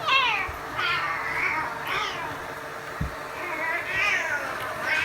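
A domestic cat meowing several times in a row, each call rising and falling in pitch, with a steady faint hum underneath.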